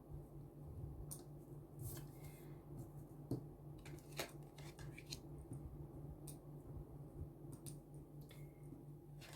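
A deck of tarot cards being handled: faint, scattered rustles, slides and snaps as the cards are shuffled and laid out, over a steady low hum.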